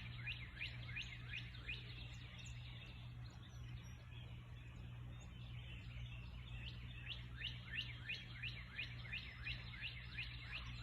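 Birds chirping: rapid runs of short chirps that slide down in pitch, about three or four a second. They thin out in the middle and pick up again for the last few seconds, over a low steady hum.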